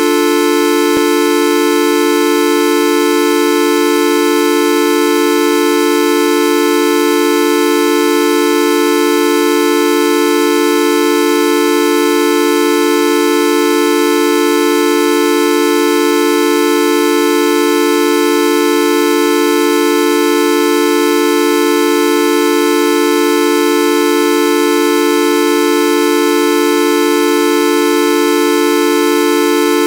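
A loud, steady, horn-like tone, buzzy with many overtones, held at one unchanging pitch without a break.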